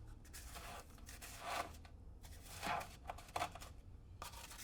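Ice dipper scooping shaved ice into a snow cone cup: about four short crunching scrapes, the longest about a second in.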